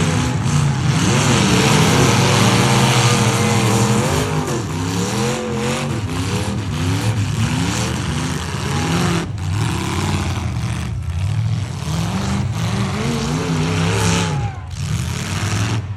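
Demolition derby trucks' engines revving, their pitch rising and falling over and over, over the loud noise of engines running.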